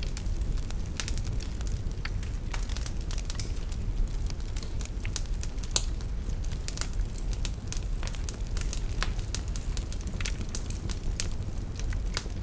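Wood fire burning in a fireplace: a steady low rumble of the flames with irregular crackles and snaps, a few louder pops among them.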